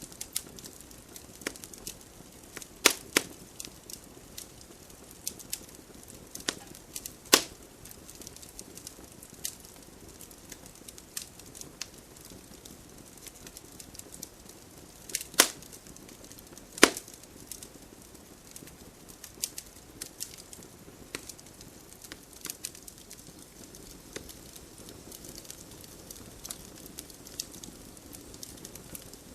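Wood fire burning with a soft steady hiss and scattered crackles at irregular intervals, among them a few sharp louder pops as the burning wood snaps.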